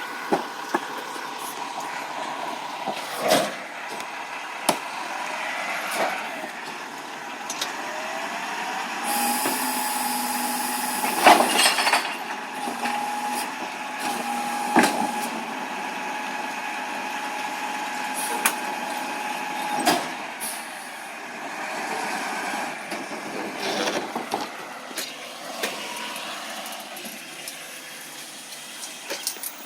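Recycling collection truck at work. A mechanical whine rises about 8 seconds in and holds steady until about 20 seconds, with a burst of air hiss and several metal clunks along the way.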